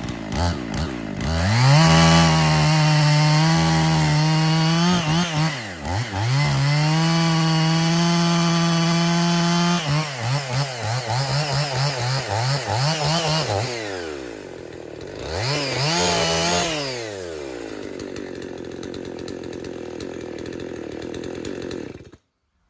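Two-stroke chainsaw run at full throttle in a long cut through a pine log, held steady and eased off twice. It then blips the throttle up and down several times, revs once more, and settles to a lower steady idle.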